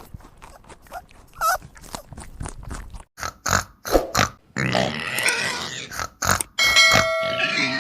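Pig grunting: a quick series of short grunts that gets louder about three seconds in, with a longer, steady, high-pitched sound near the end.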